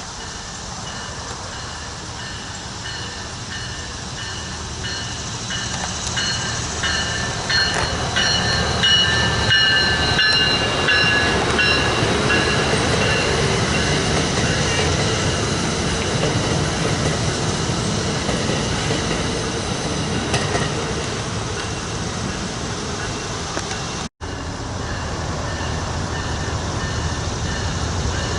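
Train running past on the rails with a steady rumble. Several high-pitched squealing tones from the wheels come in from about a fifth of the way in to about half way.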